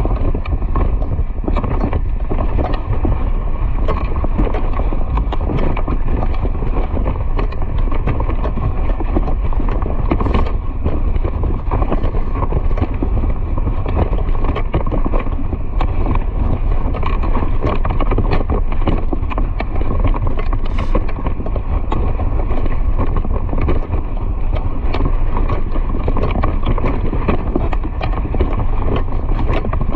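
Horse's hooves drumming quickly and steadily at speed, with wind rumbling on the microphone.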